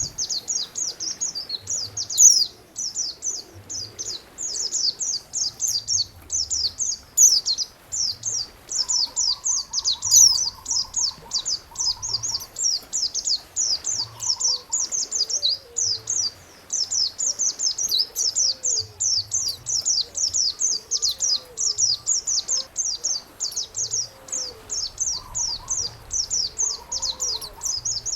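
A songbird singing a fast, nearly unbroken string of sharp, high chirps, with fainter, lower trills and calls from other birds behind it.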